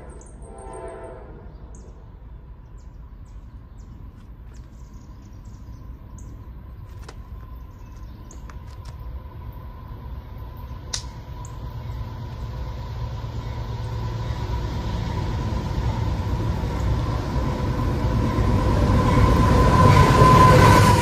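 CSX freight train with a diesel locomotive in the lead approaching, its low rumble growing steadily louder over about twenty seconds. A steady high tone strengthens along with it as the train nears.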